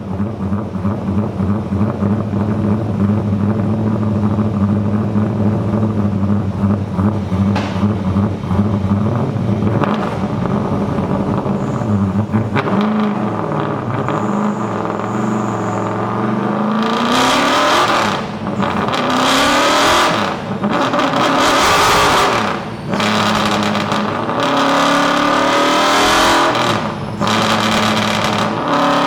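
The 'Rampage' widebody Camaro's engine and exhaust running on a chassis dyno: a steady low-speed note for about ten seconds, then the revs climb into a loud pull, broken by several brief dips before climbing again.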